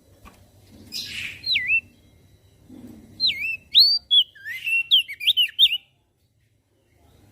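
Crested white-eye (opior jambul) singing. A short harsh chirp and a single down-slurred whistle are followed by a quick run of swooping, rising and falling whistled notes, which stops abruptly near six seconds in.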